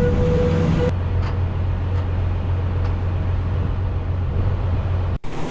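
Heavy diesel engine running steadily, with a high whine that stops about a second in. The sound cuts off abruptly near the end.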